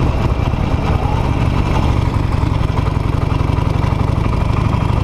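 Harley-Davidson Nightster's V-twin engine running at low, steady revs as the motorcycle slows for railway tracks.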